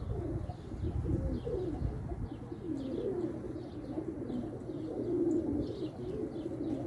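Domestic pigeons cooing steadily, with a run of short, high chirps from small birds above them.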